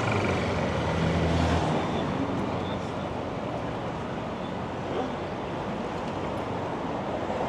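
City street traffic noise: a vehicle engine hums low for the first second and a half or so, then fades into a steady wash of road noise.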